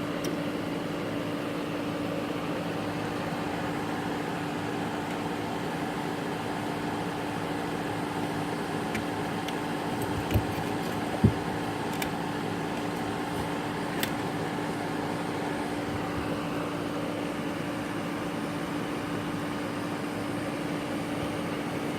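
Steady fan-like mechanical hum with one even tone, with a few faint clicks and knocks about halfway through from hand work with a screwdriver.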